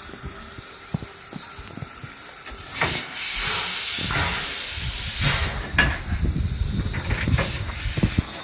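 Steam hissing from a Heisler geared steam locomotive, No. 6: a loud rush of escaping steam about three seconds in that lasts a couple of seconds, then shorter spurts of hiss.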